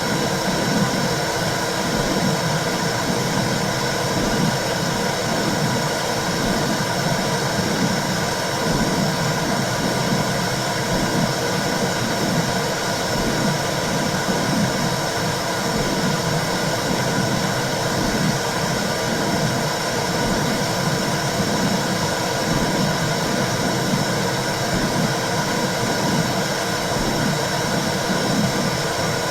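Womb sound for soothing babies: a steady whooshing noise with a low, rhythmic pulsing underneath, like a heartbeat heard through the womb.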